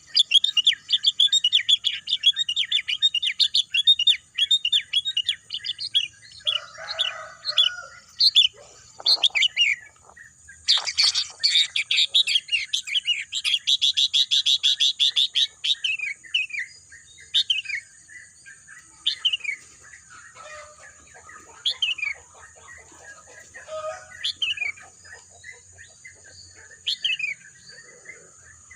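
Wild birds chirping and singing: fast runs of chirps, then from about halfway a single falling call repeated every couple of seconds. A steady thin high-pitched whine sits under the birdsong throughout.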